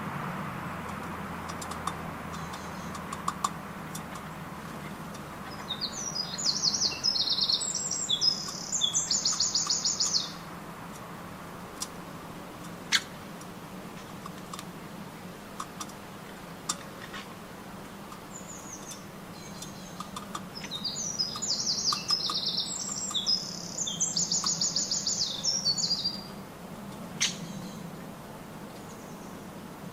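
A songbird singing twice, each song a rapid run of high repeated notes lasting about four seconds, the second about fifteen seconds after the first. Scattered faint clicks between the songs.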